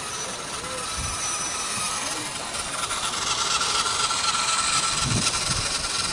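Small-scale model locomotive running on a garden railway, with a steady hiss that grows louder from about halfway through, and a few low knocks near the end.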